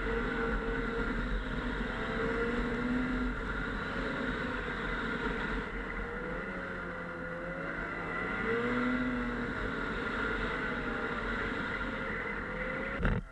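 Snowmobile engine running under way, its pitch rising and falling as the throttle varies, with a steady high whine above it. Near the end a click, and the engine sound drops away suddenly.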